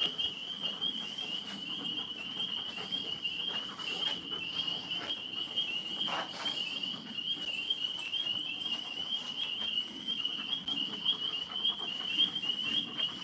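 Night chorus of tree frogs trilling continuously, a steady shrill pulsing din, with faint scattered rustling.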